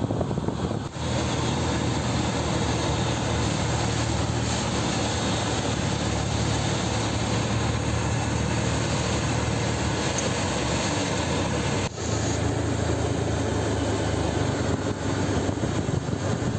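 Heavy rain and traffic on flooded roads: a steady hiss of rain and tyres on wet tarmac over a low engine hum, dropping out briefly twice, about a second in and near twelve seconds.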